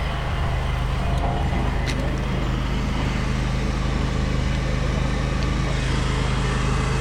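Ready-mix concrete truck's diesel engine running steadily, a constant low drone while the truck discharges concrete.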